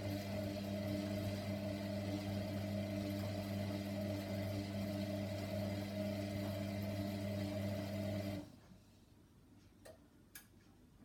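Hoover washer dryer mid main wash: a steady machine hum that cuts off sharply about eight seconds in, followed by two faint clicks.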